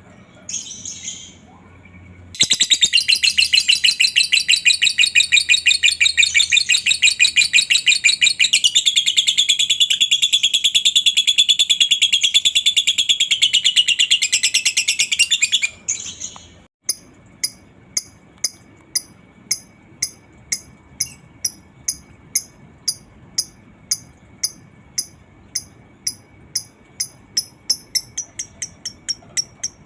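Lovebird 'ngekek': a long, loud, rapid chattering trill lasting about 13 seconds. After a short pause comes a string of single sharp chirps, about two a second, that quicken near the end.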